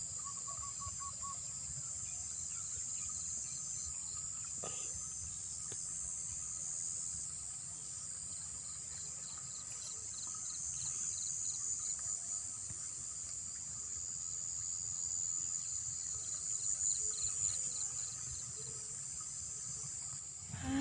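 Steady chorus of insects in a flooded rice paddy, a high continuous buzz with crickets' pulsed trills coming and going.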